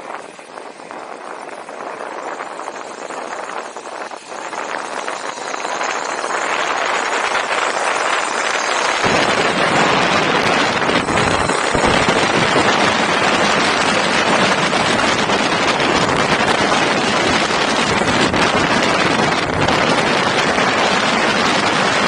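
Wind buffeting the microphone as a loud, steady rush. It builds about six seconds in, and from about nine seconds in a deep rumble joins it.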